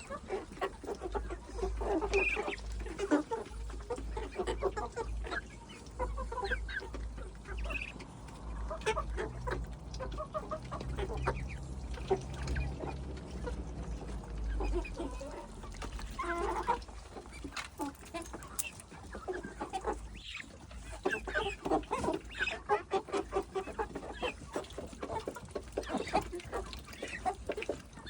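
Backyard chickens clucking, many short overlapping calls from several birds, with a low rumble through the first half.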